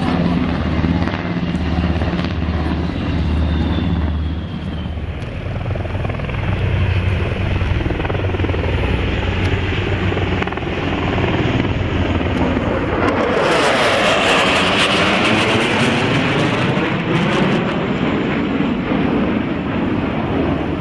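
Sikorsky HH-60G Pave Hawk helicopter running, its rotor beat pulsing at first. It then passes close by, and the rush of noise swells loudest a little past the middle with a sweeping, phasing sound before it eases off.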